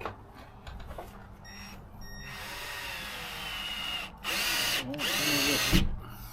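Power drill running: a quieter run with a falling whine, then two short loud bursts, each with the motor's pitch rising and falling.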